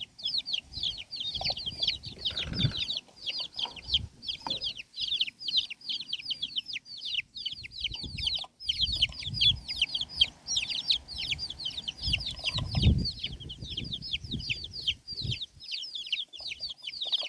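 A group of chicks peeping nonstop, many short high calls each falling in pitch, while they scramble and squabble over worms. Soft low thuds and scuffling sound beneath the peeping, the loudest a little before the middle and again near the end.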